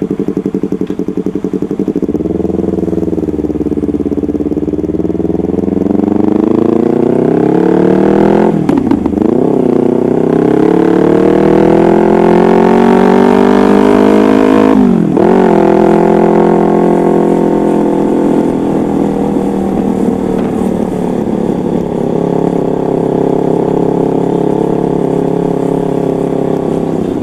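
Yamaha MT-25's parallel-twin engine through a custom aftermarket exhaust, pulling through the gears: the note climbs, drops briefly at an upshift about nine seconds in, climbs again, shifts again around fifteen seconds, then holds a steady cruising pitch.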